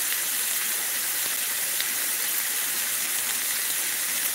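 Meatballs frying in a hot nonstick frying pan, sizzling with a steady hiss and a few faint crackles.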